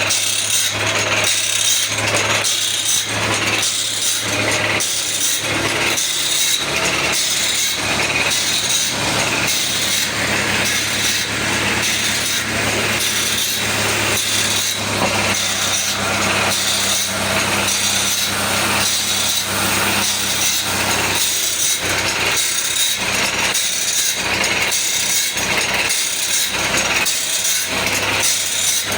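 Automatic band saw blade sharpening machine running: a steady motor hum under a rasping grind that repeats in regular strokes, roughly two a second, as the grinding wheel works tooth after tooth along the blade.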